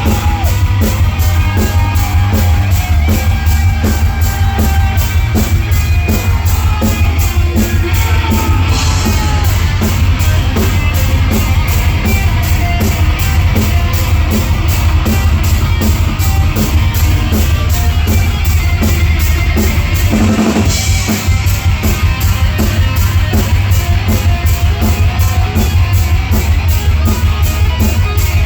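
Heavy metal band playing live and loud: fast, steady drumming with heavy bass drum under distorted electric guitars. A lead guitar plays bending lines in the first ten seconds or so, and the drum pattern breaks off for a moment with a single crash about two-thirds of the way through. No vocals.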